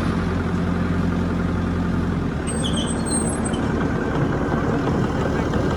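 Diesel engine of heavy earthmoving machinery running steadily under load, its pitch shifting slightly about two seconds in. A brief faint high-pitched squeak comes near the middle.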